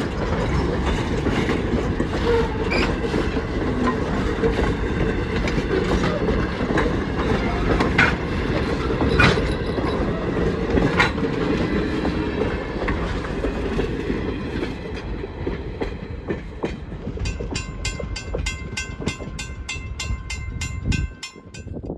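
A train hauled by Strasburg Rail Road's steam locomotive No. 475 rolling past, its wheels clacking over rail joints, the rumble gradually fading. Toward the end a bell begins ringing rapidly, about three strokes a second.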